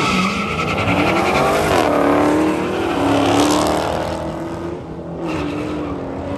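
Car engine revved hard: its pitch climbs about two seconds in and then holds high, with a rushing noise over it, dips briefly near five seconds and picks up again.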